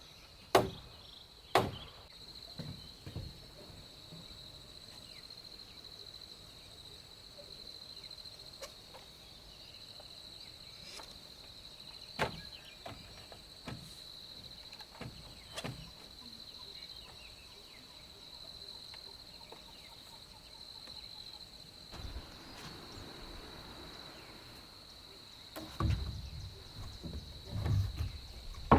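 Steady high insect drone of crickets or cicadas, with scattered sharp knocks: two near the start and a few more through the middle. Near the end comes a run of louder low thumps and rustling.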